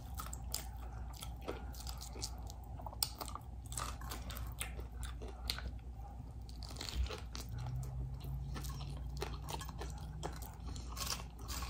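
Close-up crunching and chewing of a hot dog topped with crushed chips: many small crisp crackles as the chips break between the teeth. A low steady hum runs for a few seconds in the second half.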